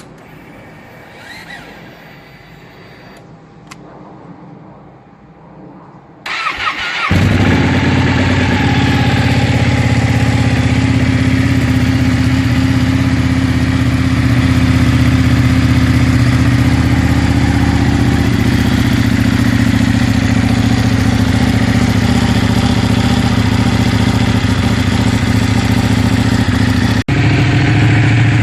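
Sport motorcycle engine started on its electric starter about six seconds in: a brief crank, then it catches and settles into a steady idle.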